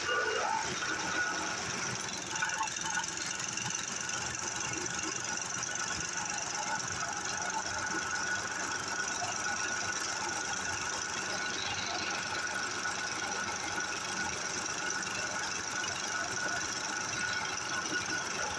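Diesel engine running steadily with a rapid, even knocking beat, the engine's clatter holding at one speed throughout.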